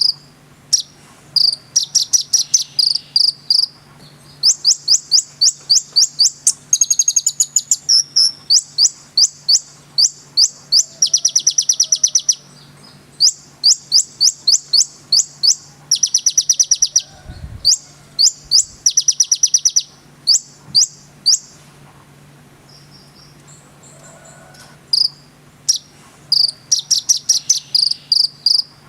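Konin bird singing in full, loud song: rapid trills of sharp, high notes in repeated bursts, pausing for a few seconds about three-quarters of the way through, over a faint steady low hum.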